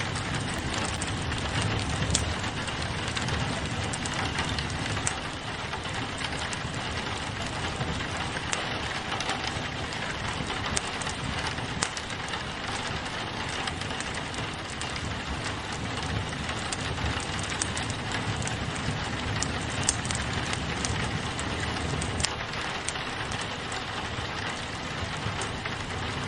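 Steady rain pattering on a window, mixed with a crackling wood fire whose pops and snaps come as scattered sharp clicks.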